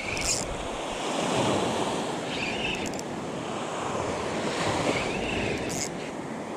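Surf washing along the beach, with wind buffeting the microphone.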